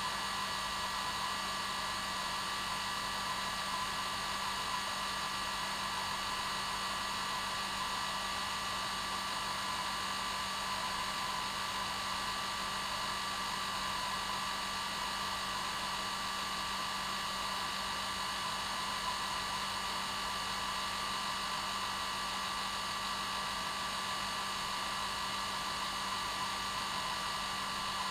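Hair dryer running steadily on its normal setting: an even rushing of air with a constant motor whine, used as white noise for getting a baby to sleep.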